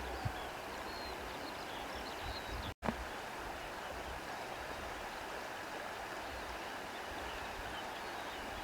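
Steady wind noise with faint, scattered bird chirps above it; the sound cuts out for an instant about three seconds in.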